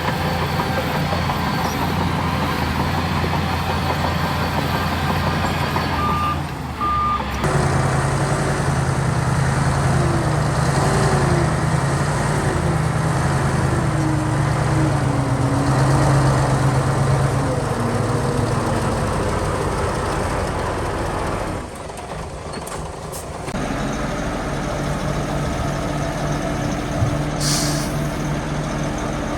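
Heavy diesel engines of earth-moving machinery, a bulldozer and dump truck, running and working under load, their pitch shifting as they labour. There are two short beeps about six seconds in and a short air-brake hiss near the end.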